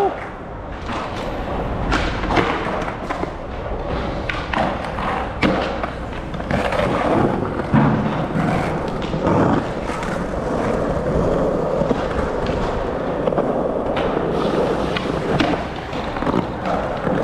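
Skateboard wheels rolling on concrete, with a string of irregular board clacks and thuds from tricks and landings.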